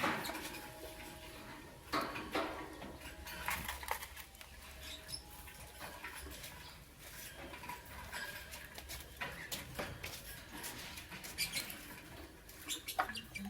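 Lovebirds chattering with short, scratchy chirps and clicks at an irregular pace, several louder ones about 2 s in and again near the end.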